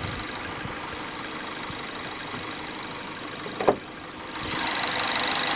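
Ford Fusion's 2.0-liter direct-injected four-cylinder engine idling steadily, already warm rather than on a cold start. A single sharp click about three and a half seconds in, after which the sound grows louder.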